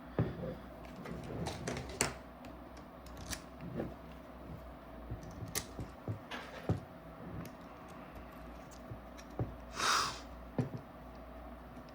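Scattered light clicks and taps of small metal parts and tools being handled while an air source adapter is fitted to a paintball marker, with one short scraping rustle about ten seconds in.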